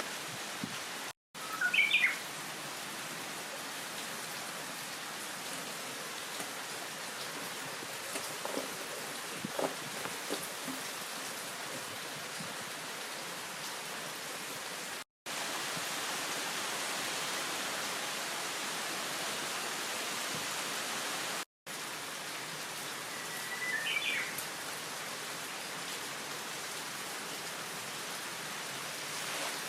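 Heavy rain falling steadily, an even hiss, briefly broken off three times. A bird gives a short chirping call about two seconds in and again about three-quarters of the way through, and a few faint small knocks sound around the middle.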